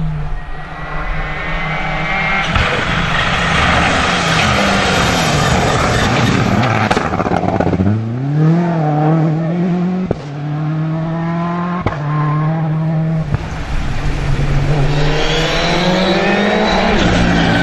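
Rally car engines at full throttle on a stage, the pitch dropping and climbing again through gear changes, with tyre noise and a few sharp pops.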